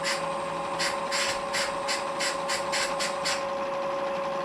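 Quick rasping strokes, about three a second, stopping about three seconds in, over a steady two-tone hum.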